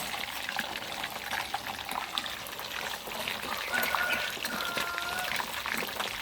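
Whole giant gourami sizzling and crackling in hot oil in a small pan, with hot oil ladled over the fish and trickling back into the pan.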